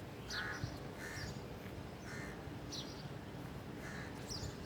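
Birds calling: short calls repeated about once a second, with thin high falling chirps between them, over a steady low background.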